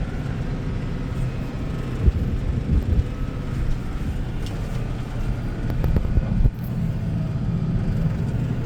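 Tractor engine running steadily, with a few sharp knocks and bumps.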